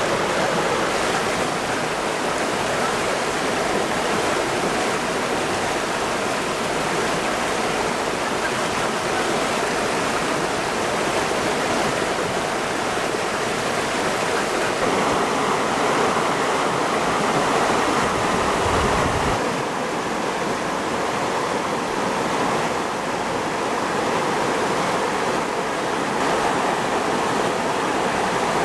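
Steady rush of flowing stream water, an even unbroken wash of noise.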